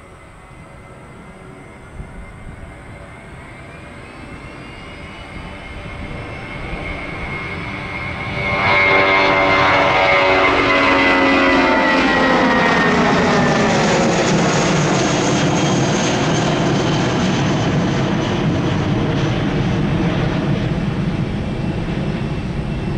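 Jet airliner's engines at takeoff power, growing louder, then a sudden surge about eight and a half seconds in as it passes close, its whine falling in pitch as it goes by while the rumble stays loud.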